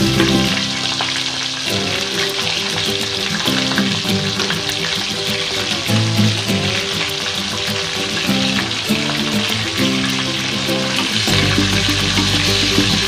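Whole bitter gourds shallow-frying in hot oil, a steady sizzle with fine crackling, as a metal spatula turns them in the pan. Background music plays underneath.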